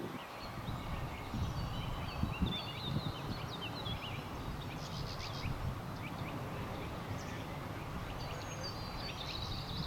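Small birds chirping and twittering with short, high notes and trills, over a steady low rumble.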